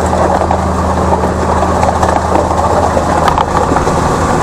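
Farm tractor's diesel engine running steadily, a constant low drone with a rough noisy layer above it.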